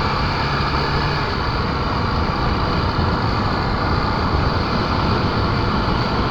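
Honda XR250 Tornado's single-cylinder four-stroke engine running steadily as the bike rides along, under a steady rush of wind on the action-camera microphone.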